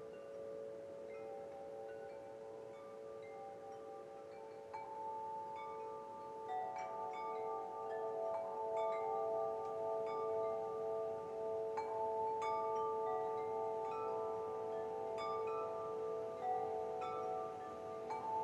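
Wind chimes ringing: many overlapping, long-ringing tones struck again and again, growing louder about six seconds in.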